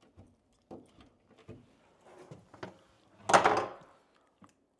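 Scattered light clicks and knocks of things being handled, with one louder scraping clatter a little past three seconds in.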